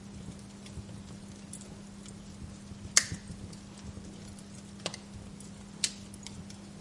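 Wood fire in a fireplace crackling over a faint steady hum, with scattered small ticks and three sharp pops of the burning logs, the loudest about three seconds in.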